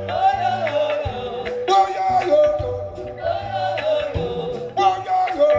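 Live band music with a voice singing in repeated phrases, each opening on a held note, over a steady bass and regular percussion.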